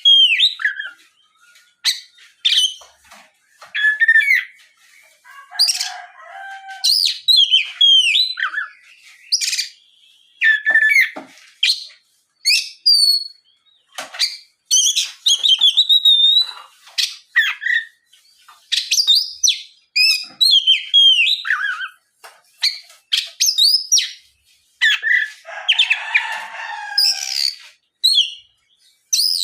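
Oriental magpie-robin (kacer) singing in full, loud song: a string of varied, sweeping whistled phrases broken by short pauses. Two harsher, scratchy passages come about a fifth of the way in and again near the end.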